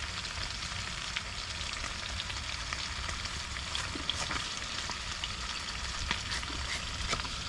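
Food sizzling as it cooks: a steady hiss with scattered small crackles and pops.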